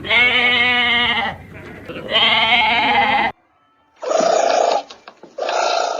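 Two long, quavering bleats from a farm animal, cut off suddenly about three seconds in; after a moment's silence come two shorter, lower animal calls.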